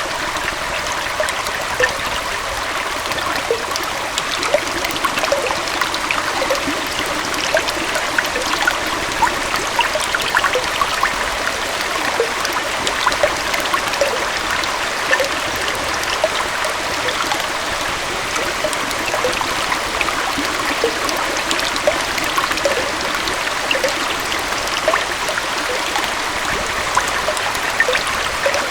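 Small waterfall and stream flowing steadily, with a trickling, gurgling splash of water over rocks.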